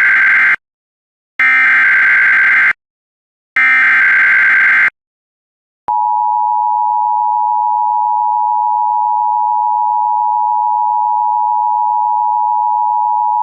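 NOAA Weather Radio alert: the end of one burst of SAME digital header data and two more bursts, about a second long each, followed about six seconds in by the steady single-pitch 1050 Hz warning alarm tone. Together they announce a severe thunderstorm warning.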